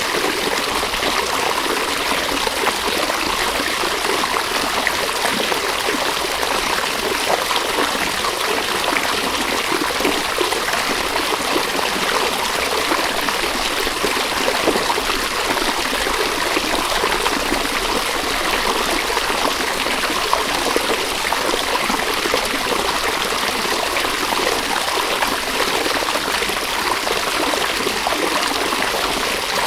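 River water running steadily over stones, a constant rush with small splashes and trickles throughout.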